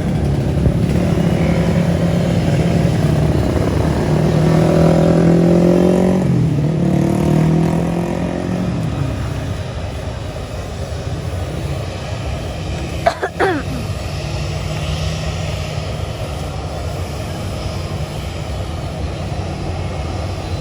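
A steady engine hum that grows louder for a few seconds, dips in pitch, then fades away, leaving a low rumble. A short, sharp sound comes about two-thirds of the way through.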